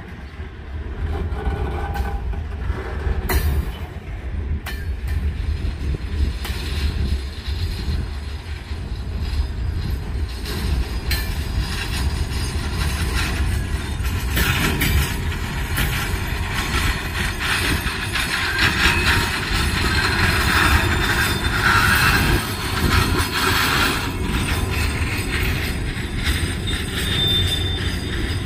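Freight train cars rolling past: a steady, loud rumble with wheel and rail noise and scattered clanks.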